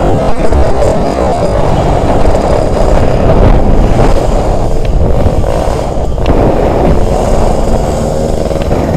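Wind buffeting the microphone while riding a Yamaha RX-King, with the bike's single-cylinder two-stroke engine running underneath.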